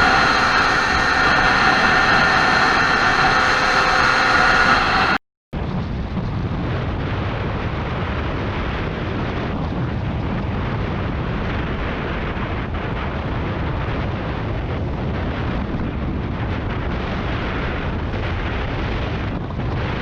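Motorcycle ridden at speed as heard from an onboard camera. For about five seconds the engine runs with a steady whine, then the sound cuts out briefly and a steady roar of wind over the microphone follows.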